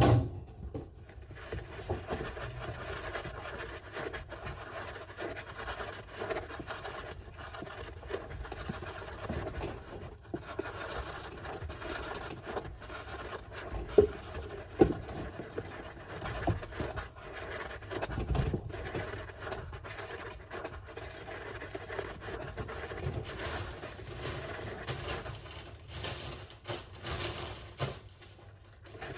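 Golden hamster scratching and scraping around its enclosure, with a few sharp knocks in the middle.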